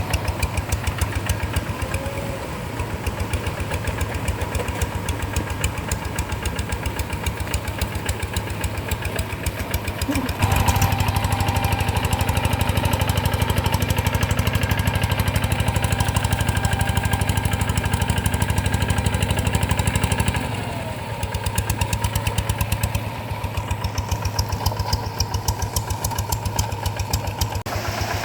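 Rice-field hand tractor's single-cylinder diesel engine running with rapid, even firing pulses. It grows louder and heavier about a third of the way in, holds for some ten seconds, then drops back.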